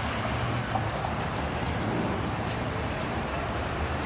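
Steady street traffic noise: passing cars' tyres and engines, with a low engine rumble underneath.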